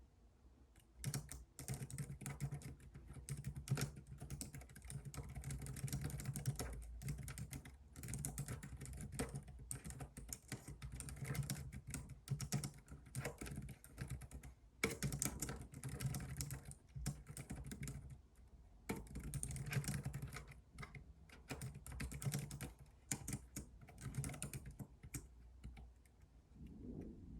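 Typing on a computer keyboard: quick runs of keystrokes with short pauses between them, starting about a second in and stopping near the end.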